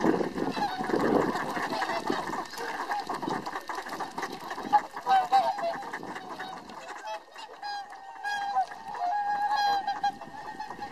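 A flock of whooper swans honking, many short calls overlapping throughout.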